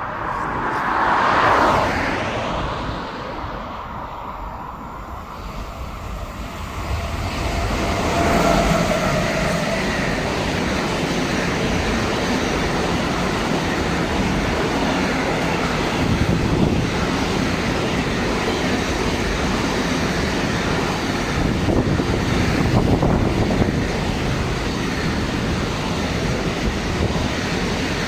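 Long freight train passing close by: a swell of noise about a second or two in, then the steady noise of its wagons rolling past on the track.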